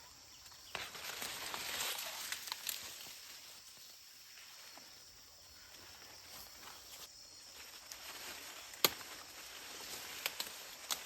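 Rustling of grass and leaves as someone moves or works through vegetation, loudest early on, with light clicks and one sharp snap about nine seconds in.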